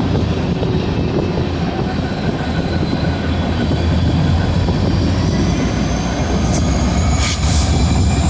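Union Pacific train rolling past, a loud steady rumble of its cars on the rails, with a couple of brief high-pitched sounds near the end.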